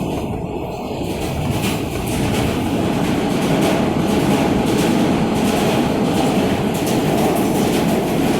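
R160A subway train running between stations, heard from inside the car: a loud, steady rumble of wheels on rail with a scatter of rail-joint clicks, growing louder about two seconds in.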